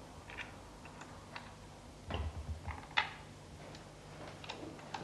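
Faint, scattered mechanical clicks and ticks from the rose engine lathe being handled, with a low knocking about two seconds in and a sharper click a moment later.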